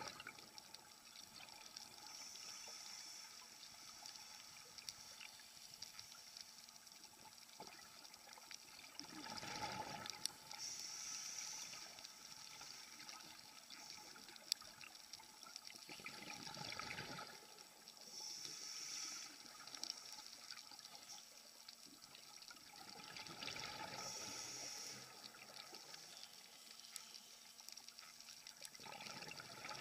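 Scuba diver breathing through a regulator underwater: a short hiss on each inhale, then a gurgling burst of exhaled bubbles, about once every seven seconds.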